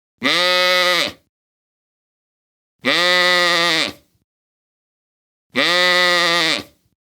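A farm animal bleating: one call about a second long, repeated three times at even spacing with dead silence between, each call exactly alike.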